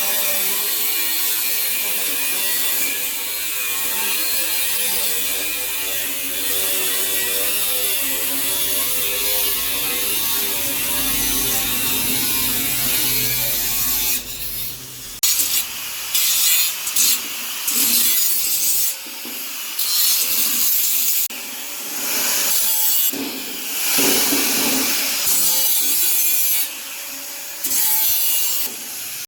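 A power tool running: a steady, wavering whine for about the first half, then cutting in and out in short bursts.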